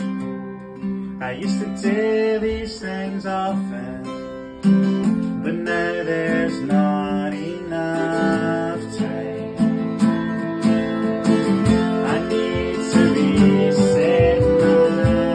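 Acoustic guitar music, strummed, with a melody moving over the chords; the playing becomes fuller and louder about four and a half seconds in.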